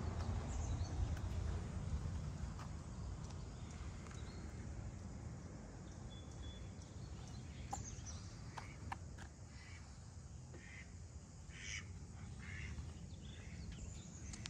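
Birds calling in a run of short calls during the second half, over a low steady rumble.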